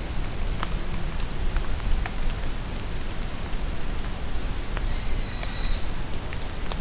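Steady rain falling in a forest, with individual drops pattering and ticking close by. Small birds give a few brief high chirps, and a short twittering call comes about five seconds in.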